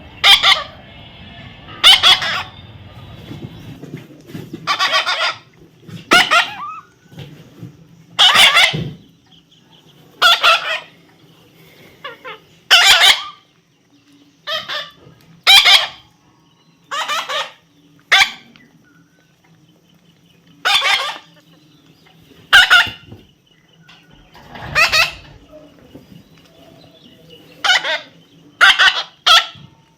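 Parrot squawking over and over, with harsh loud calls about every one to two seconds.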